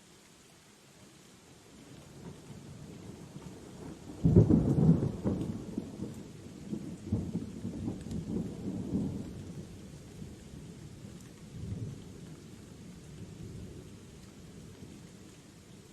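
A thunderclap over steady rain: a low rumble builds, a sudden loud crack comes about four seconds in, then the thunder rolls on in several surges and slowly fades.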